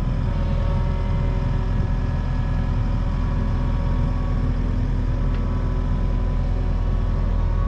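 An engine or motor running steadily at an even pitch, with no changes in load.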